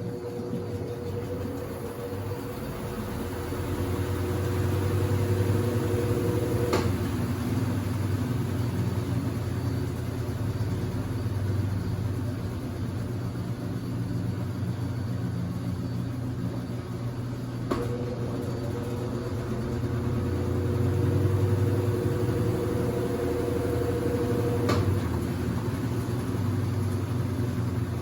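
Consul CWC08 8 kg washing machine running with a steady low hum. A motor whine comes on with a click, runs about seven seconds and cuts off with a click, then comes back the same way near the middle and stops again near the end.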